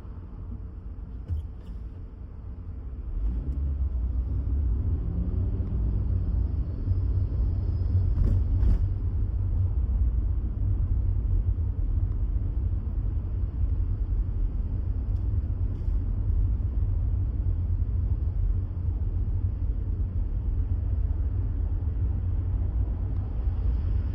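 A steady low rumble that grows louder about three seconds in and then holds.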